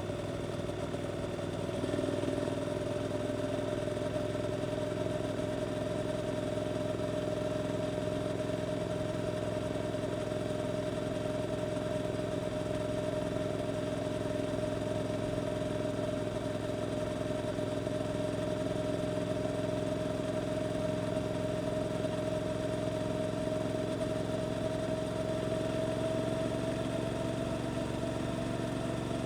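Suzuki GSX-8S 776 cc parallel-twin engine running through an Arrows Performance aftermarket exhaust at a steady cruise, its pitch rising slightly near the end as revs build.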